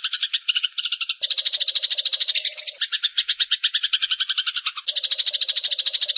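Eurasian tree sparrows giving the rapid, excited chatter of fighting birds: an unbroken run of sharp chirps, about ten a second. The pattern changes abruptly about a second in, near three seconds and near five seconds.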